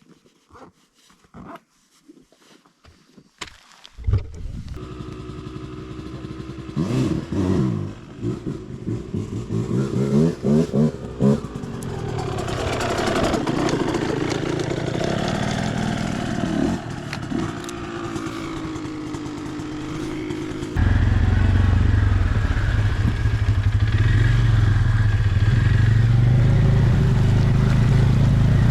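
A few light clicks, then about four seconds in an off-road vehicle's engine starts and is revved up and down several times before settling to steady running. About three quarters of the way through it suddenly gets louder and runs on steadily.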